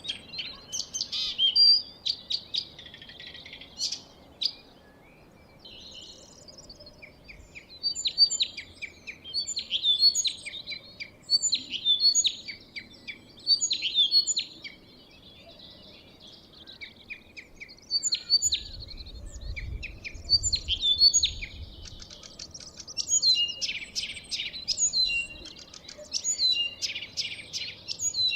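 Songbirds singing: a dense chorus of short chirps and repeated trilled phrases, with a brief low rumble about two-thirds of the way through.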